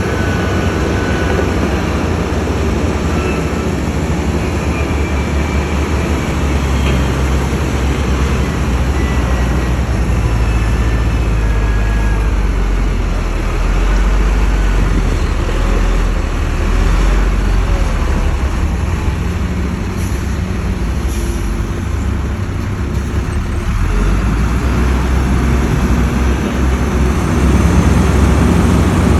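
Heavy diesel earthmoving machinery, such as a bulldozer and dump trucks, running steadily with a deep engine rumble that swells a little in the middle and again near the end.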